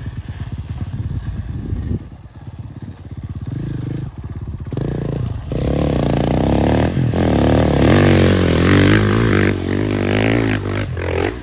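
Dirt bike engine revving hard under load as it climbs a hill. It gets louder about five seconds in, and its pitch rises and falls as the throttle is opened and eased.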